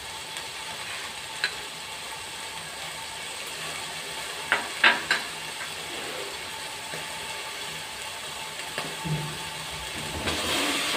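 Chicken and vegetables sizzling gently in oil in an aluminium pot, with a few short sharp clicks about one and a half and five seconds in. Near the end a spatula starts stirring and the sizzle grows louder.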